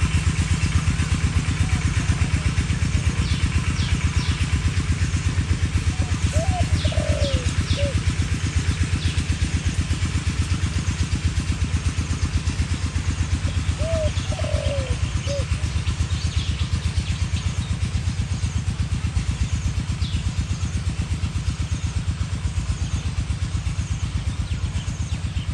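An engine idling steadily with a fast low pulse. Over it, a spotted dove coos twice, short curved notes a few seconds apart, and small birds give brief high chirps.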